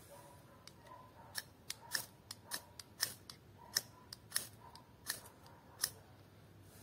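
A pocketknife blade scraped hard against a flint, about a dozen sharp strikes in quick, uneven succession starting a second or so in, striking sparks onto char cloth to light a fire.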